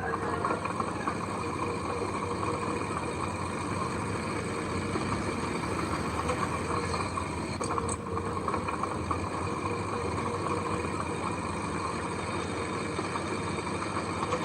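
Heavy earthmoving machine's engine running steadily, with a brief click about eight seconds in.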